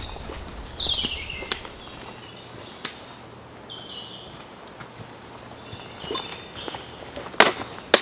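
Wild birds calling and singing, with short whistled notes and a falling, gliding call about a second in. A few sharp snaps or knocks are mixed in, the loudest a double one near the end.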